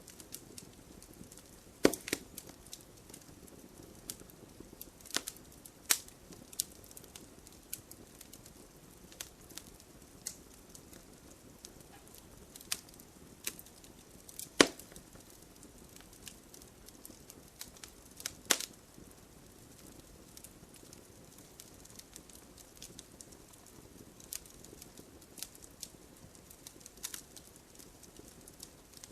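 Wood fire burning in a fireplace: a soft steady hiss of flames with irregular sharp crackles and pops from the logs, a few louder snaps scattered through.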